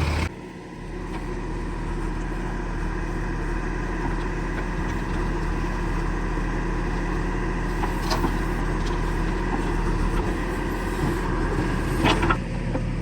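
A heavy diesel engine running steadily, with a sharp knock about eight seconds in and another near the end.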